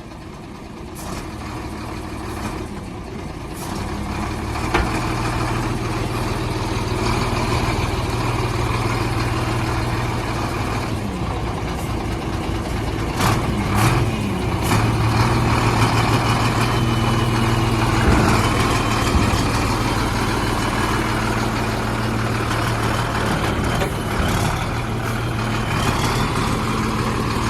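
Diesel engine of a Howo Sinotruk 371 hp dump truck running. It grows louder over the first five seconds, then holds a steady drone. A few short knocks come about halfway through.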